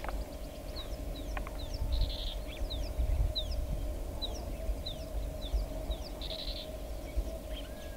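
Bird calls: a run of short, high chirps that each slide downward, about two a second, over a low outdoor rumble and a steady low hum.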